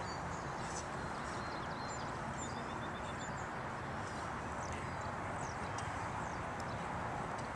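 Small birds chirping, with a quick trill of about six notes around two and a half seconds in, over a steady outdoor background noise.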